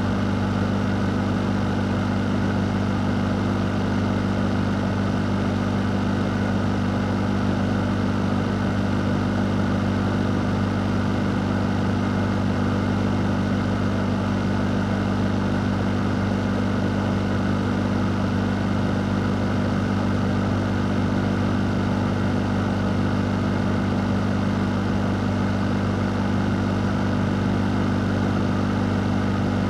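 A fan running steadily: an even rush of air over a low, constant motor hum.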